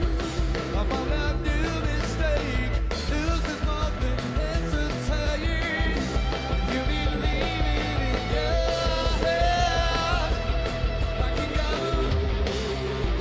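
Live rock band playing loud and steady, with drums, bass and guitars under a singing voice.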